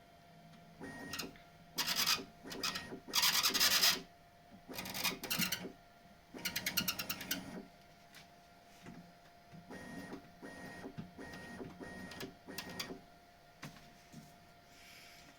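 Bambu Lab X1 Carbon 3D printer's bed mechanism moving in short bursts, with a grating squeak at the belt tensioner roller, whose edge has built up rubber from the belt. The bursts are louder in the first half and quieter later, over a faint steady hum.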